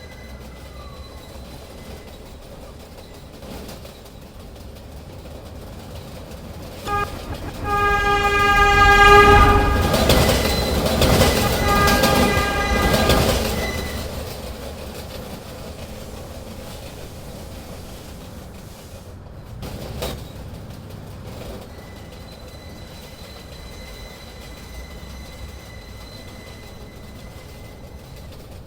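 New York subway train running, with a train horn giving a short toot about seven seconds in and then a longer blast. Right after the horn comes a loud rush of wheel and track noise lasting several seconds, which then settles back to the steady running rumble with a faint high whine.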